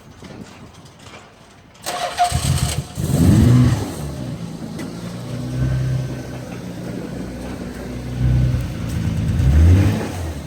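A Nissan 300ZX's swapped-in twin-turbo V6 (VG30DETT) cranking about two seconds in, catching with a rising rev, then idling with a few throttle blips. This is the engine's first start after the swap.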